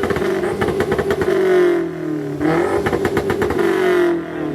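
A sports car engine revved hard twice, each rev held high for over a second before the pitch drops, with a fast crackle running through the held revs.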